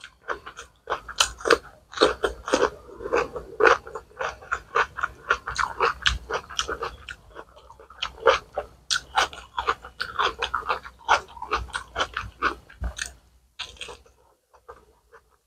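Close-miked wet chewing of chicken curry and rice, with many quick mouth clicks and smacks, thinning out near the end.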